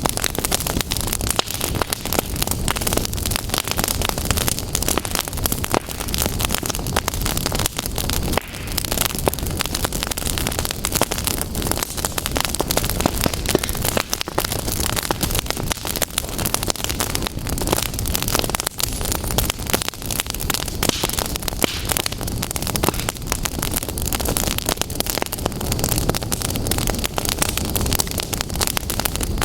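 Fire crackling steadily, a dense stream of small snaps and pops over a continuous rushing hiss.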